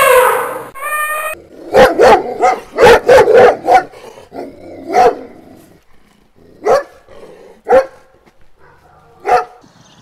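The end of an elephant's trumpet call trails off at the start. Then a dog barks: a quick run of about eight barks about two seconds in, followed by four single barks spaced a second or two apart.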